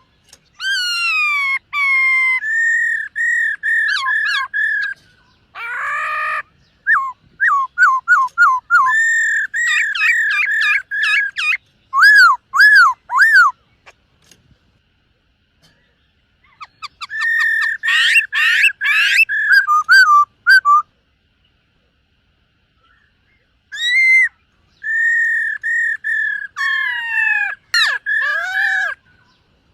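Black-throated laughingthrush singing: loud, clear whistled phrases of quickly repeated rising-and-falling notes. The song breaks off twice for a couple of seconds, about halfway through and again after about twenty seconds.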